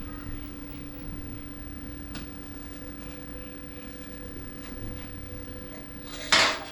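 A single short MIG tack weld about six seconds in, a loud crackling burst lasting under half a second, tacking a sheet-metal patch into a car fender. A steady low hum runs underneath.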